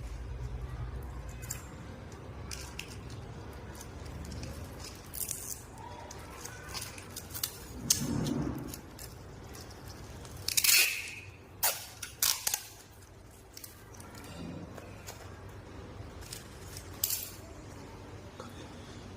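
Scattered clicks, clinks and knocks of small objects being handled over a low steady hum, with a louder rustling burst about ten and a half seconds in.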